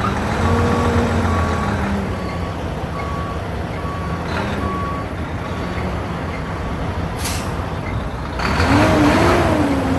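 Mack dump truck's diesel engine running as the truck backs up, its backup alarm beeping about once every 0.8 s through the first half. A short hiss of air comes near the 7-second mark, then the engine revs up about 8.5 s in and eases off near the end.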